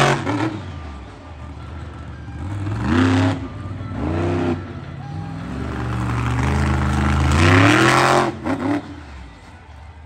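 Monster truck engine revving hard in repeated bursts, its pitch climbing and falling each time, with the longest and loudest climb at about eight seconds in. It falls away about nine seconds in.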